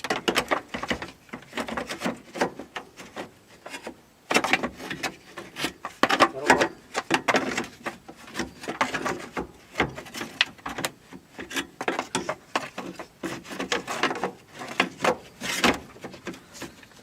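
Irregular knocks, clunks and rubbing of hard parts being handled and fitted, with a scrape or tap every second or so.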